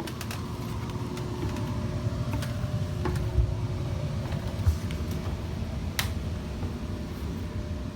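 Footsteps going down a boat's interior stairs, with two heavier thumps near the middle and small clicks and creaks, over a steady machinery hum.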